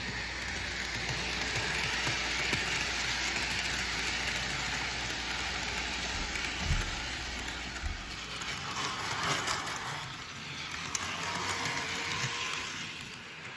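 Model train running along the track, giving a steady rushing hiss. A low hum under it drops away about eight seconds in, just after a couple of soft knocks.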